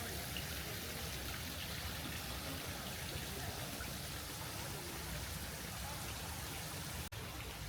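Steady running water, a continuous even rush, broken by a brief dropout near the end.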